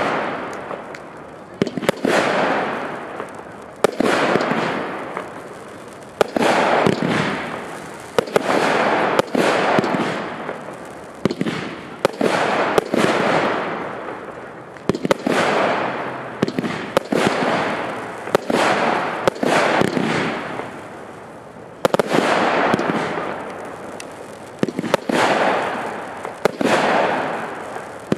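Nico 'Golden Eye' consumer fireworks battery firing shot after shot, about one every one to two seconds. Each shot is a sharp bang followed by a fading hiss.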